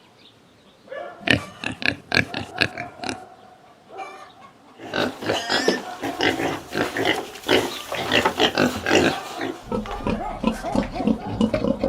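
Pig grunting in short calls: a few scattered ones at first, then a denser, almost continuous run from about five seconds in.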